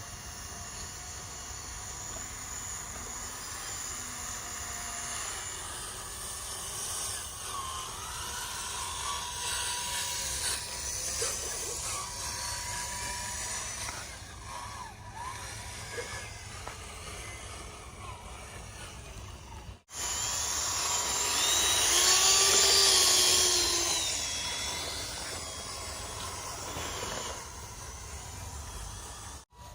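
Small electric gear motor of an RC mini tractor whining as it drives, its pitch rising and falling with speed. It gets louder for a few seconds after a break about two-thirds of the way in.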